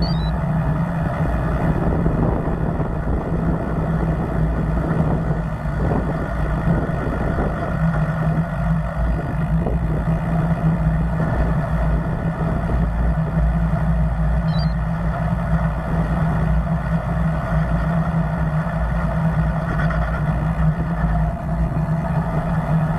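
Steady motor-vehicle road noise with a constant low hum, without any single event standing out.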